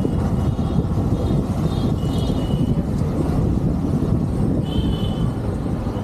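Riding on a motorcycle: steady low rumble of the engine, tyres and wind on the microphone, with two short high-pitched tones about two and five seconds in.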